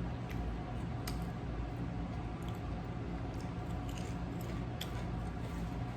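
Chewing a Subway sub close to the microphone: soft wet mouth clicks every second or so over a steady low hum.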